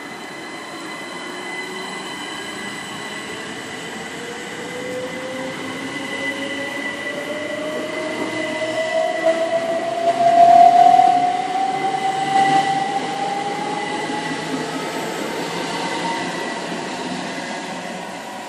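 A train passing through the station, loudest a little past halfway, with a whine that rises steadily in pitch as it goes by.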